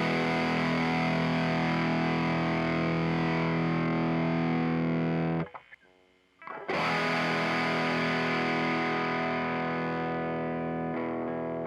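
Electric guitar played through a Mooer Black Secret distortion pedal, a Pro Co RAT-style clone: a distorted chord rings and sustains, is cut off suddenly about five and a half seconds in, and after about a second of near silence a second chord is struck and left to ring and slowly fade.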